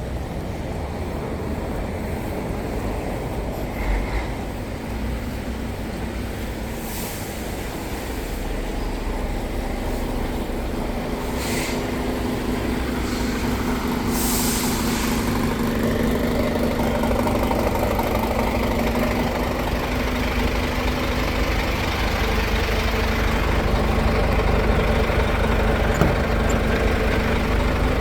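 Heavy truck's diesel engine and road noise heard from inside the cab while driving, with a steady hum that comes in about a third of the way through and builds slightly. Three short hisses of air break through in the first half.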